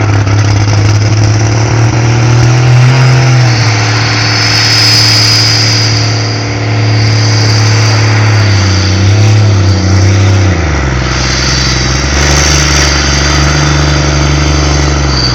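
A modified pulling tractor's engine running loudly at a steady speed. Its pitch drops about three and a half seconds in and rises again about ten seconds in, with a high whine over the top at times.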